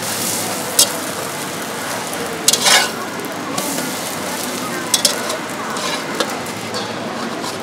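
An omelette sizzling in hot oil in a steel wok, with a metal spatula scraping and clinking against the wok several times as it is pushed and turned.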